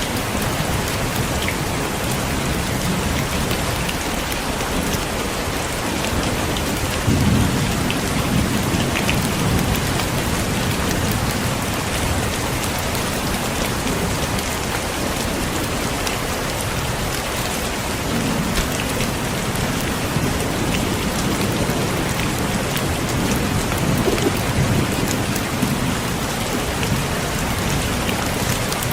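Heavy rain falling steadily, with low rolls of thunder swelling under it, the first about a quarter of the way in and more later on.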